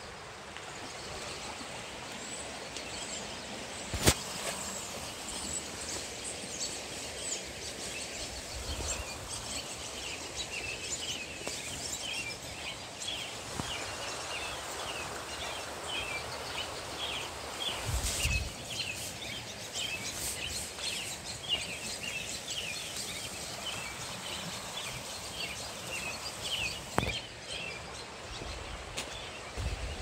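Small birds calling, a long string of short, high chirps repeated over and over, above the steady rush of a shallow creek. A couple of sharp knocks and a low thump are mixed in.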